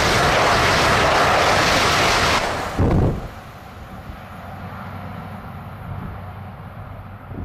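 ICE high-speed train passing close by at speed: a loud rushing noise of wheels and air for the first two and a half seconds, a short loud low thump about three seconds in as the tail goes by, then the sound drops away to a quieter fading rumble.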